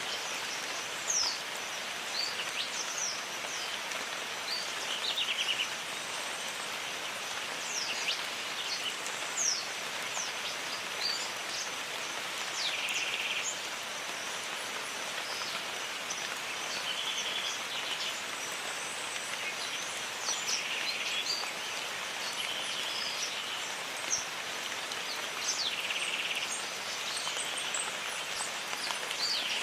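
Steady rain falling in a jungle, an even hiss. Birds call over it every second or two with short, high, downward-sweeping whistles and brief buzzy notes.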